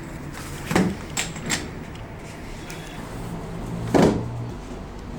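A few sharp knocks: a loud one about a second in, two lighter clicks just after, and a louder thump about four seconds in, over a steady low hum.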